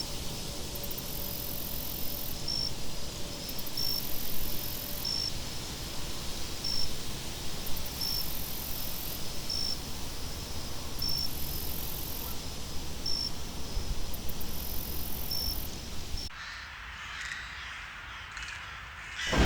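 Wind ambience with a steady low rumble, insects chirping a short high note about every second and a half, and spells of very high buzzing trills. About three-quarters in, the mix cuts abruptly to a quieter, thinner wind. A loud sound, possibly a crow cawing, comes in right at the end.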